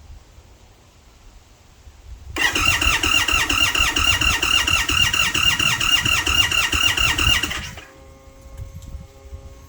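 Indian Sport Chief V-twin being cranked on its electric starter: a loud whine with a rapid, even chug of compression pulses for about five seconds, then cut off suddenly without the engine catching, a hard start.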